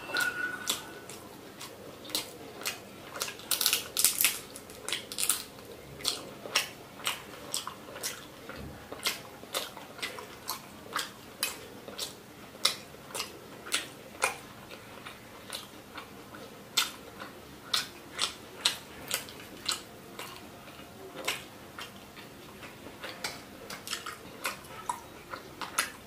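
Close-miked chewing of fried fish, a steady run of sharp crunches and wet mouth clicks about one or two a second, thickest a few seconds in.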